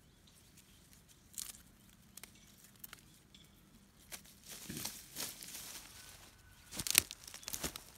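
Irregular rustling and scuffing with a few sharp clicks, like footsteps and handling on rough ground. It gets busier about halfway through, with the loudest click near the end.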